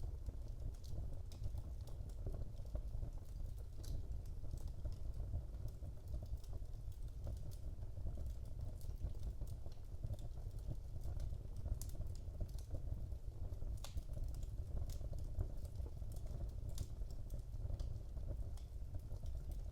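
Wood fire burning in a fireplace: a steady low rumble of flames with irregular, rapid small crackles and pops.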